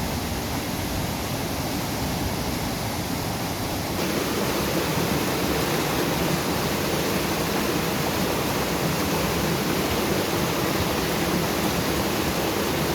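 Fast-flowing monsoon river rushing steadily, a continuous roar of water that gets a little louder about four seconds in.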